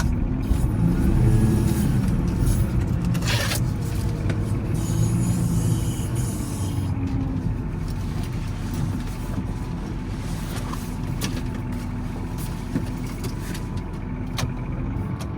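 Volvo L70C wheel loader's diesel engine running under load while plowing snow, its pitch rising and falling in the first few seconds and then holding steadier. There is a sharp knock a little over three seconds in.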